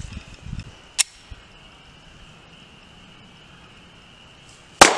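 A single loud 9mm gunshot near the end, sharp, with a long rolling echo after it. A sharp click about a second in comes before the shot.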